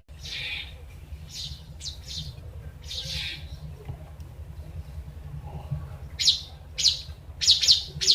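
Birds chirping: short high-pitched calls, spaced out at first, then a quicker run of four or five near the end, over a steady low rumble.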